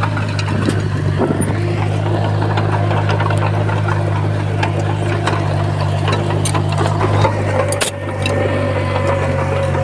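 Komatsu bulldozer's diesel engine running steadily under load, with scattered metallic clicks and clanks and a sharp knock near the end.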